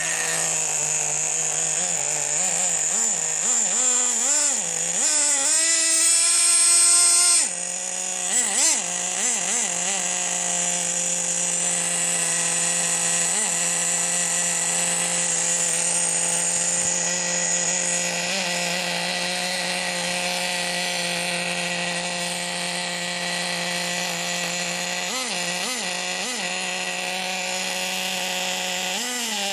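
Two-stroke glow-fuel nitro engine of a Team Associated GT2 RC truck running with a high buzzing note. It is revved in rising surges a few seconds in, drops back to idle about seven seconds in, then gets a few short throttle blips just after and again near the end.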